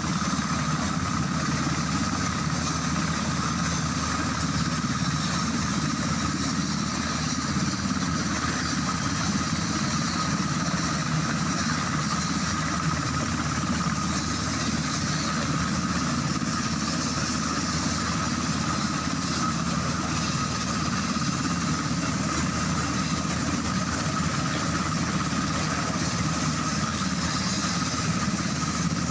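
Black Hawk helicopter turbine engines running steadily: a constant whine over a low rumble.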